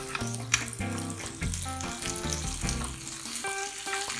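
Chicken steaks sizzling on a grill pan, with crackles through a steady hiss, under background music with held notes and a bass line.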